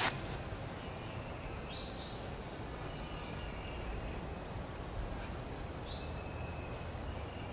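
Steady outdoor background noise with two short bird chirps, each a quick upward call, about four seconds apart.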